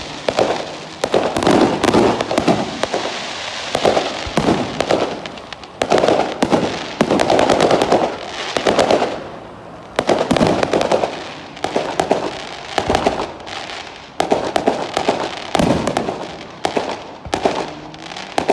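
Fireworks going off in a continuous run of bangs and crackles, with heavier bursts every second or two.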